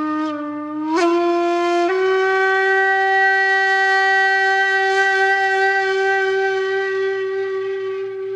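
Conch shell (shankh) blown in one long breath: the note steps up in pitch twice early on, then is held as a single steady, bright tone that tapers slightly near the end.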